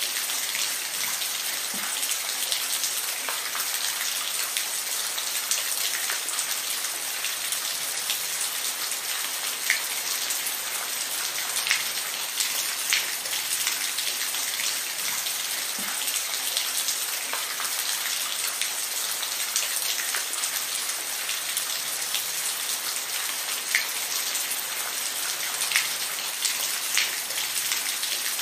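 Steady rainfall: a dense, even hiss of rain with many distinct drops ticking on a surface throughout.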